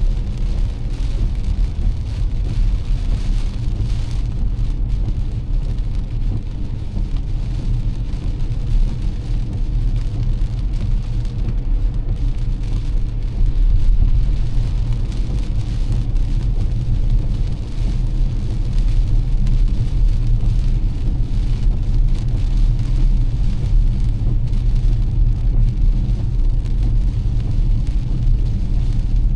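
Car driving through heavy rain: a steady low road and engine rumble under the hiss of rain on the car and the wet road. The sound swells briefly about halfway through.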